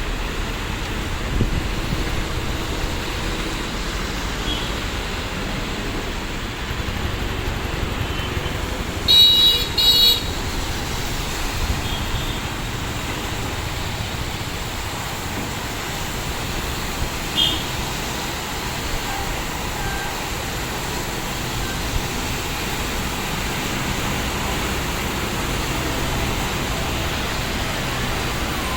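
Heavy rain falling steadily, with a vehicle horn honking twice about nine seconds in and fainter horn toots now and then.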